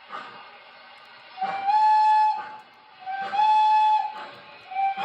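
Steam whistle from an O scale model steam locomotive's onboard sound system: two blasts of about a second each, with a third starting near the end. Each blast slides up briefly into a steady pitch.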